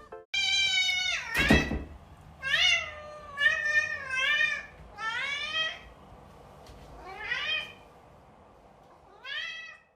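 A domestic cat meowing repeatedly, about seven separate meows with pauses between, the first one long and falling in pitch. A short knock sounds about a second and a half in.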